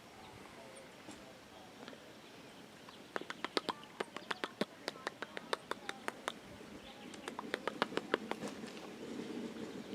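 Two runs of quick, sharp clicks or taps, several a second: one from about three seconds in to about six seconds, and another around seven to eight and a half seconds, over a faint outdoor background.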